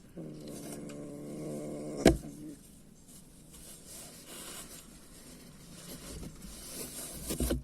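A cat making a low, drawn-out sound for about two and a half seconds, with a single sharp knock about two seconds in, followed by fainter scuffling.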